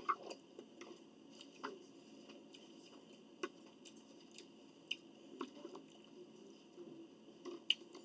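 A person chewing food, quiet and close, with a few short faint clicks scattered through.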